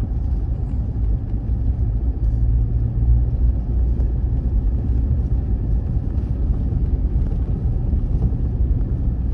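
Toyota Tacoma pickup truck on the move: steady low rumble of engine and road noise.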